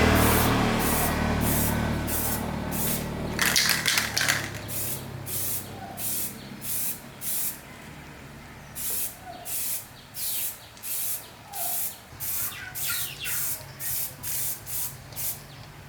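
Paint spraying in short hissing bursts, roughly two a second, with a brief pause around the middle. A low hum fades out over the first few seconds.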